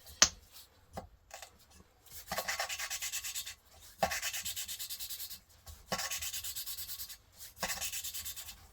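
A valve is being lapped into its seat in a Volvo 1.8 cylinder head with lapping paste, the suction-cup lapping stick twisted rapidly back and forth: a gritty rubbing in four bursts of a second or so each. There is a sharp click just after the start.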